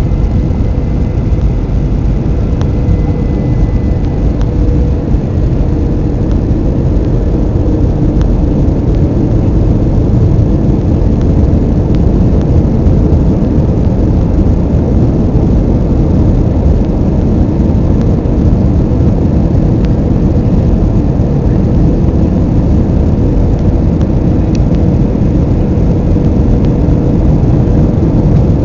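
Steady cabin noise inside an Airbus A320 airliner in flight: a loud, even rumble of the engines and the air rushing past, with a faint steady hum.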